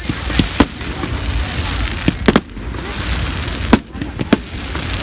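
Fireworks display: about seven sharp bangs of shells bursting, some in quick pairs, over a steady crowd noise.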